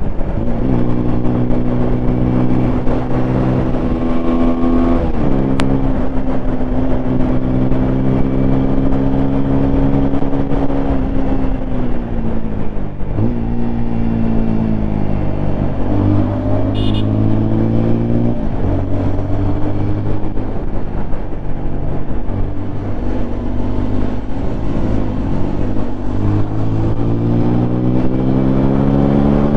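Single-cylinder 200 cc sport motorcycle engine heard from the rider's seat while riding, revs holding steady, climbing and dropping with throttle and gear changes.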